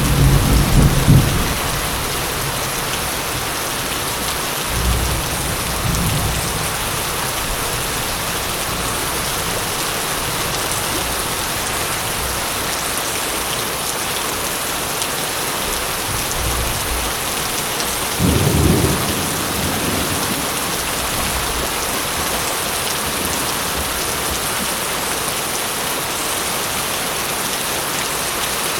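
Steady heavy rain falling, with low rolls of thunder: one at the start, smaller rumbles around five and sixteen seconds in, and a stronger one about two-thirds of the way through.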